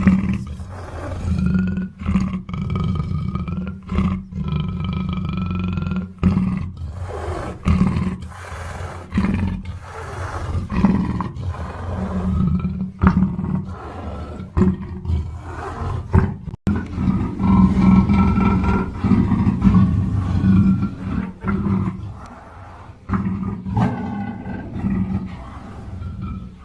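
Black panther calling in a long run of repeated deep, rough calls, broken by short pauses.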